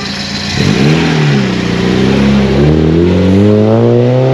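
A classic car's engine revs from idle about half a second in and then accelerates away, its note rising steadily as it pulls through the gear.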